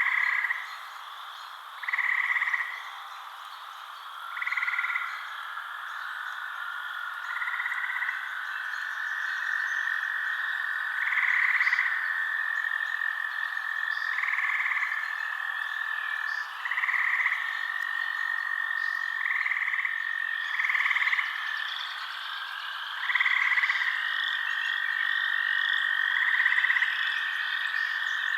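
A night chorus of frogs: a short croaking call repeats every two to three seconds over a steady, unbroken trill.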